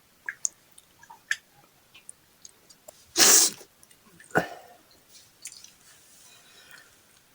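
Small scattered mouth clicks and smacks of someone eating, with one loud sneeze about three seconds in and a shorter, lower burst of breath about a second later.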